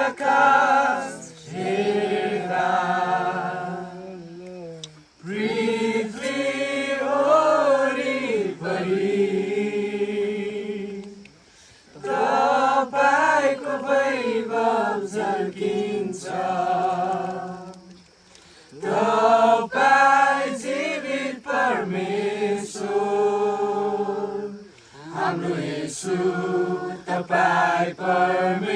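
A group of voices singing together without instruments, in long phrases of several seconds separated by brief pauses for breath.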